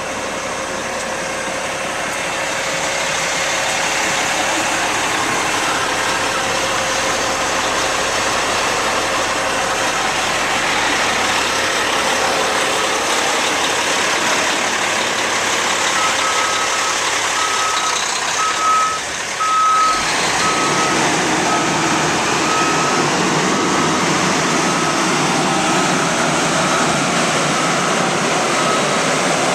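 Cat C-10 diesel engine of a Kenworth T800 concrete mixer truck running steadily. About halfway through, a reversing alarm starts beeping, roughly one beep a second.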